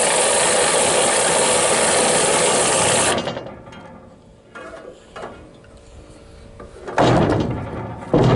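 A loud, steady mechanical rasping from a tool for about three seconds, cutting off suddenly, followed by a few lighter knocks and a heavy knock near the end.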